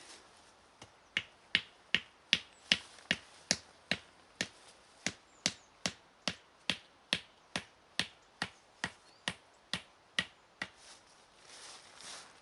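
A series of about two dozen sharp knocks, evenly spaced at a little over two a second, like repeated striking; it starts about a second in and stops near the end.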